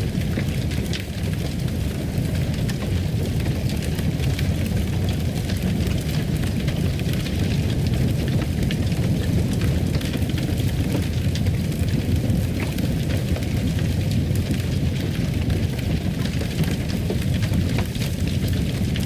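Fireplace fire burning: a steady low rumble with scattered small crackles.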